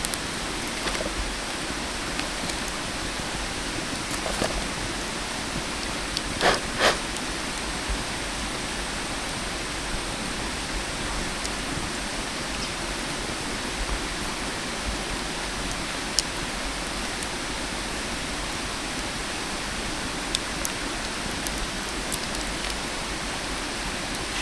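Steady sizzling hiss of food grilling over charcoal, with scattered sharp crackles and pops from the embers; two louder pops come close together about a third of the way through.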